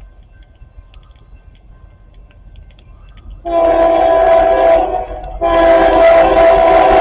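CSX freight locomotive's multi-chime air horn sounding two blasts, a shorter one about three and a half seconds in and a longer, louder one starting about a second later, after a few seconds of faint low rumble. It is the warning the train sounds approaching the grade crossing.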